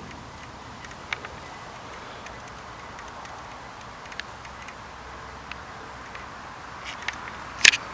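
Steady faint hiss of quiet outdoor night air, with a few scattered small clicks and one sharper click near the end.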